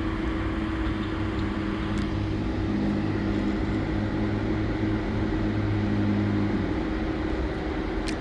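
A vehicle running, a steady hum with a low drone that grows stronger from about two and a half seconds in and eases off near seven seconds.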